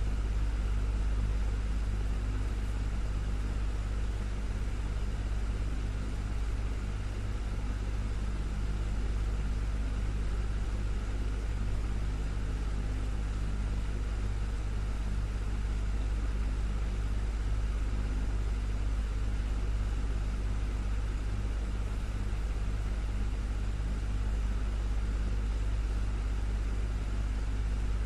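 Desktop fan running steadily: a constant low hum from the motor with an even rush of moving air over it.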